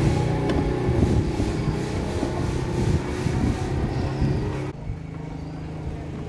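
A motor or engine running steadily with a low, even hum. About three-quarters of the way through, its higher hiss cuts off suddenly and the lower hum carries on.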